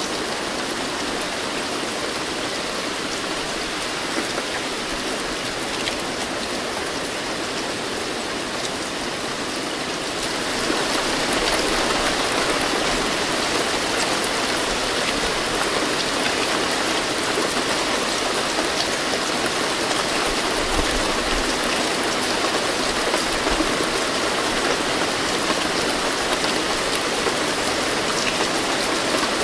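Steady rainfall with fine pattering drops, growing heavier and louder about a third of the way in and then holding steady.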